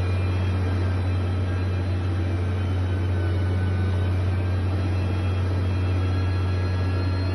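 Heavy construction machinery's diesel engine running steadily, a constant low drone that does not rise or fall.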